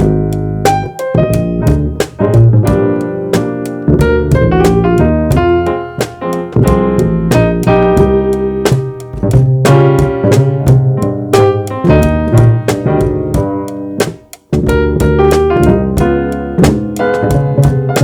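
Jazz trio playing: keyboard with bass and drum kit, dense keyboard chords over a walking low line and steady cymbal and drum strokes, with a brief gap about fourteen seconds in.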